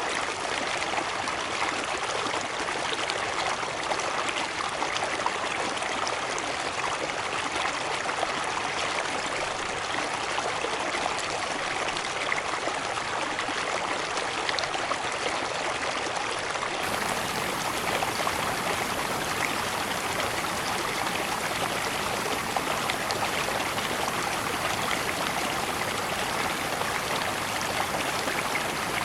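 Steady rushing of a river cascade, water pouring and splashing without a break. About two-thirds of the way through, the sound turns fuller, with more low rumble.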